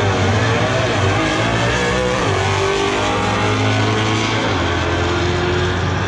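Drag-racing Mustangs, a Fox-body and a 2018 Mustang GT V8, running at full throttle down the strip; a loud engine note whose pitch bends and shifts.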